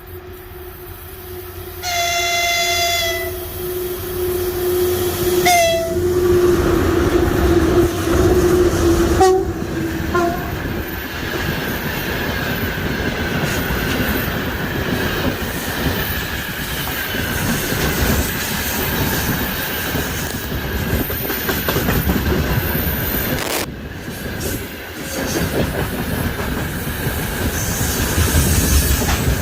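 VL11 electric locomotive with its train: horns sound over the first ten seconds, a long low tone with a higher blast about two seconds in and a short one near six seconds. Then the train runs by with a continuous rumble, wheels clacking over rail joints and a thin wheel squeal.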